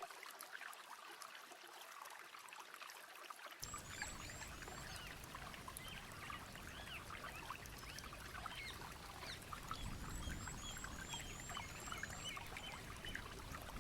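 Faint rainforest ambience: water trickling and pouring, with many birds calling in short chirps and whistles, including a quick run of high, repeated chirps. The sound grows fuller and deeper about three and a half seconds in.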